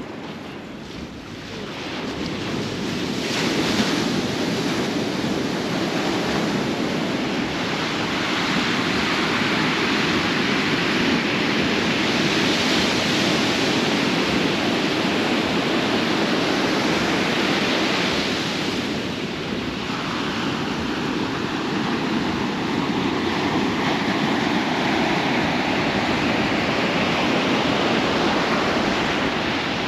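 Ocean surf breaking and washing up the shore, with wind buffeting the microphone. The rushing swells about three seconds in and eases briefly around two-thirds of the way through.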